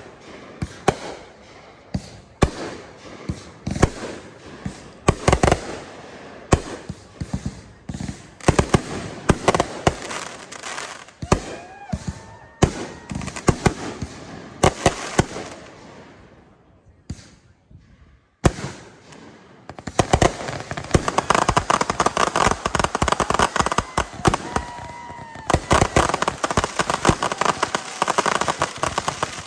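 Consumer fireworks display: 500-gram cakes and aerial shells firing and bursting in a quick string of bangs. Past the middle there is a short lull and then a single bang. About two-thirds of the way in, roman candle buckets start up as a dense, continuous run of rapid pops and crackle.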